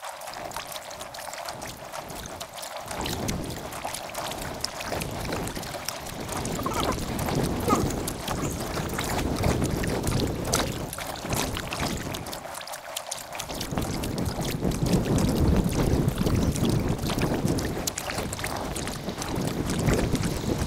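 Sped-up time-lapse audio of kayak paddling on a river: water splashing and dripping from paddle strokes, dense with small ticks, with wind buffeting the microphone.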